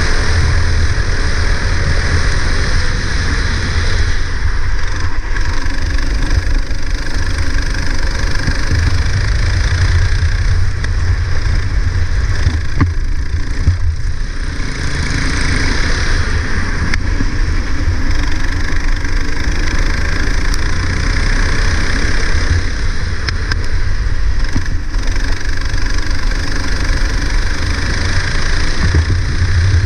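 Go-kart engine running at speed on a rain-soaked track, its pitch rising and falling through acceleration and braking, over a steady hiss.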